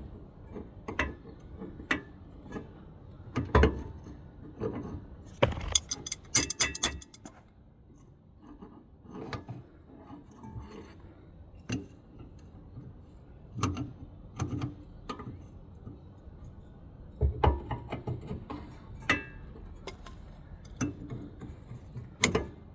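Hand tools clicking and clinking on metal steering parts: scattered knocks, with a quick run of sharp metallic clicks around six seconds in and another cluster of knocks near the end.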